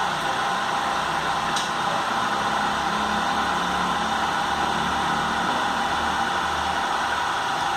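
Motorised drive of a blast-furnace discharge gate running steadily as it moves the gate through a forward/reverse test cycle: an even mechanical hum and whir.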